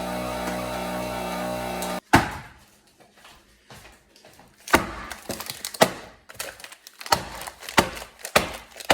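Background music that cuts off abruptly about two seconds in, followed by a series of about six sharp knocks and clacks, spaced irregularly a second or so apart, from handling a freezer bag of frozen chicken pieces at a vacuum sealer.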